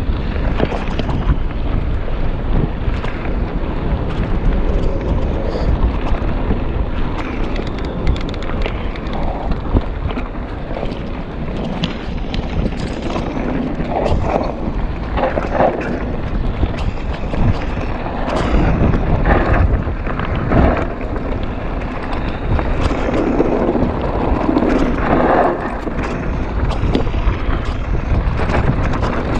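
Steady, loud wind rumbling over the microphone.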